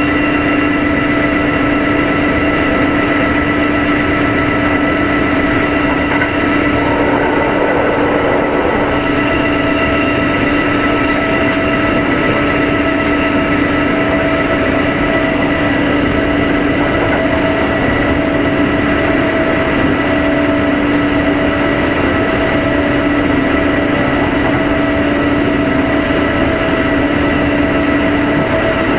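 Kintetsu 2610 series electric train running, heard from inside the motor car Mo2616: steady rolling and traction noise with a constant whine that holds one pitch. There is a single short click about eleven seconds in.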